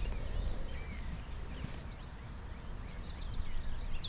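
Birds chirping outdoors: a few scattered chirps, then a quick run of high chirps from about three seconds in, over a steady low rumble.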